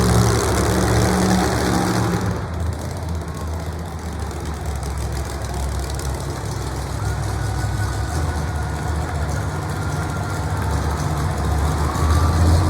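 A monster truck's engine running with heavy low rumble and uneven revving, loudest in the first two seconds and again near the end.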